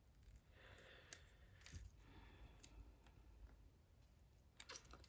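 Near silence: faint handling of paper craft pieces, with a soft rustle about a second in and a few light clicks, more of them near the end.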